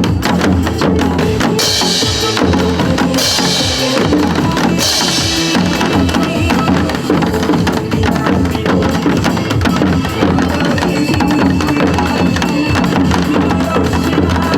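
Janggu (Korean hourglass drums) played together in dense, rapid strokes along with recorded backing music that has a steady beat. Three short hissy washes come at about two, three and a half and five seconds in.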